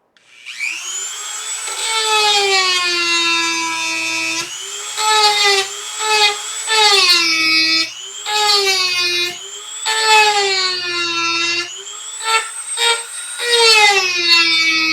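Dremel rotary tool spinning up, then grinding the black epoxy casing of an IC chip. Its whine drops in pitch each time the bit bites into the epoxy and rises again as it eases off, several times over.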